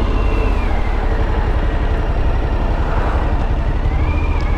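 Motorcycle engine running under way. Its pitch dips about half a second in and climbs back near the end, as the throttle is eased and opened again.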